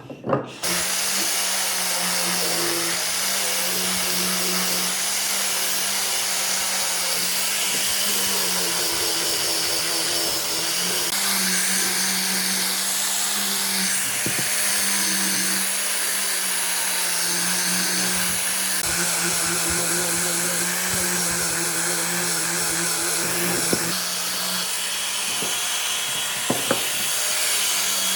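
Electric power tool running steadily in a woodworking shop, a motor hum over a dense whirring noise, its pitch wavering slightly. It starts just after the opening, with a few small clicks near the end.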